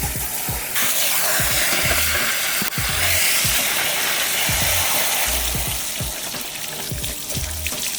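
A hard spray of water hissing, as when the muddy mini bike is being washed down; it starts about a second in and tapers off near the end.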